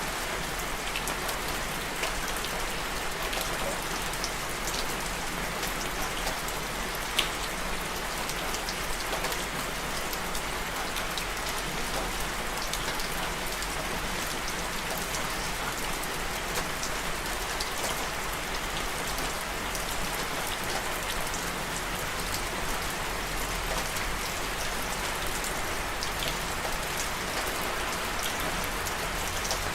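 Steady rain falling, an even hiss with scattered single drops ticking through it and one sharper drop hit about seven seconds in.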